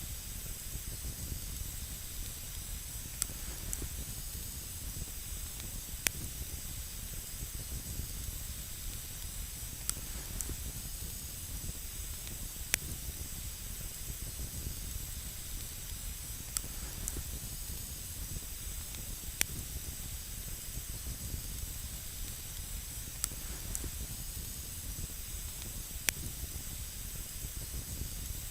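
Campfire burning with a steady hiss and a low rumble, and a sharp crackle or pop every few seconds.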